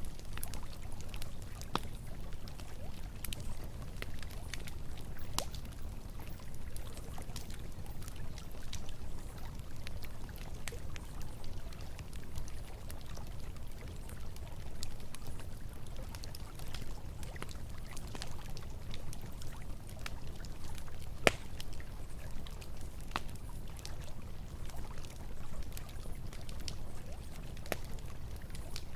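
Running river water with a campfire crackling over it: a steady low rush of water and scattered sharp snaps and pops, one louder snap about three-quarters of the way through.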